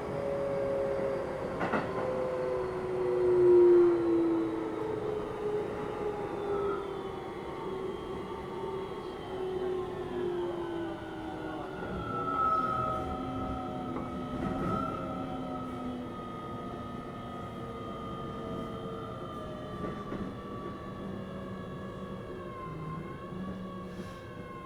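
Keio 7000 series electric train running, heard from aboard: several motor whine tones fall slowly and steadily in pitch as the train slows, over a constant rumble of wheels on rail. There is a louder swell about 3 to 4 seconds in, and the upper tones waver near the end.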